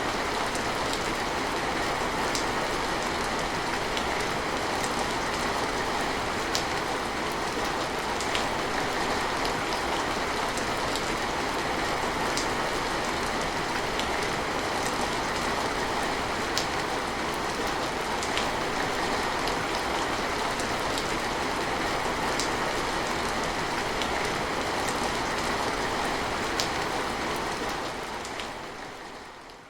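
Steady rain falling, a dense even hiss with scattered sharp drip-like ticks, fading out near the end.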